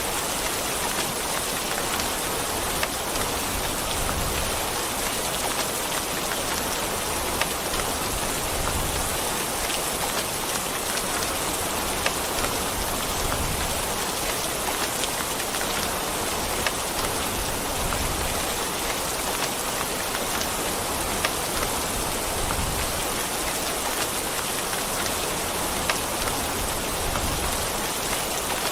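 Steady heavy rain falling, with a dense even hiss and scattered sharper drop impacts standing out every second or two.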